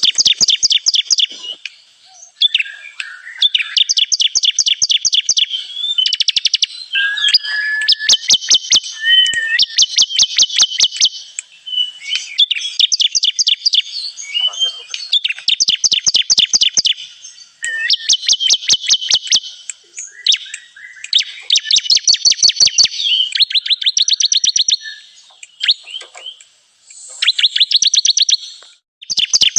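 Bar-winged prinia (ciblek) song: loud bouts of rapid, evenly repeated sharp chirps, each about one to two seconds long, following one another with short pauses, about a dozen in all.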